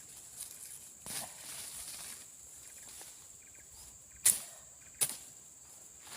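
Machete slashing through brush and undergrowth: a soft stroke about a second in, then two sharp swishing cuts about a second apart near the end.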